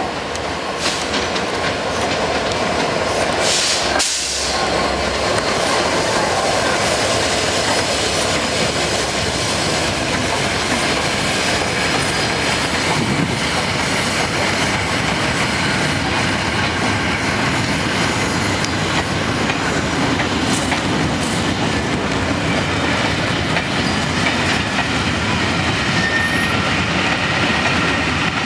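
A train passing: a Class 67 diesel-electric locomotive hauling an unpowered steam locomotive and coaches, the diesel engine running as it goes by, then steady clatter of wheels over rail joints and pointwork, with some wheel squeal.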